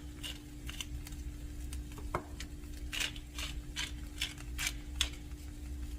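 Oak salt or pepper grinder being twisted, its adjustable ceramic rotor making a run of small, irregular clicks and crunches.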